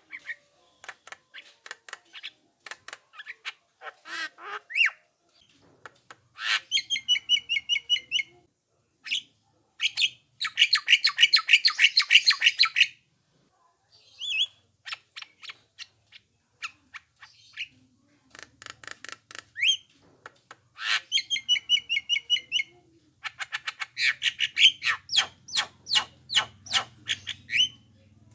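Javan myna (jalak kebo) calling: quick runs of sharp clicking notes broken by several loud, harsh, rasping chatter bursts, the longest lasting about three seconds.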